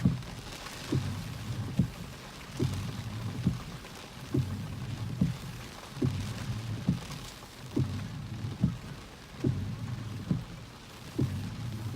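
Rain and wind from a cold-front thunderstorm, an even hiss. Under it a low thump repeats evenly, a little faster than once a second.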